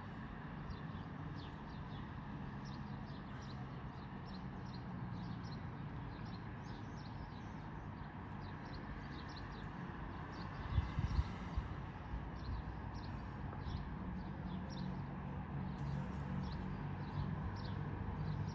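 Birds chirping: short high calls repeated a few times a second over a steady low hum, with a brief low rumble about eleven seconds in.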